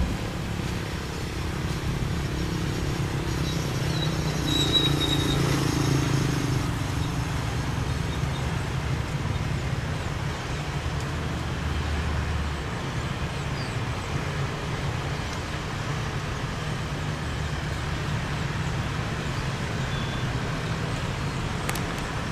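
Steady low engine rumble with a haze of noise, and a brief high whine about four seconds in.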